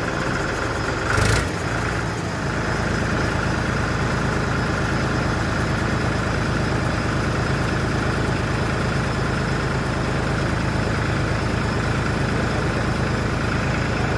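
Powertrac 47 hp tractor's diesel engine running steadily, with one short, loud knock about a second in. The engine picks up a little about two and a half seconds in and holds there.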